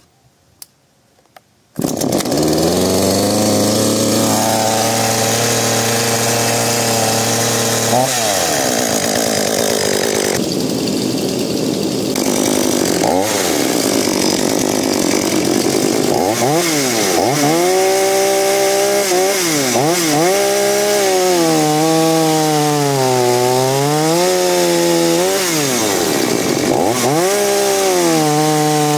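Two-stroke petrol chainsaw that starts abruptly about two seconds in after a few faint clicks. It runs at a steady speed for several seconds, and then, through the second half, its engine pitch repeatedly sags and climbs back up, as under cutting load or throttle changes.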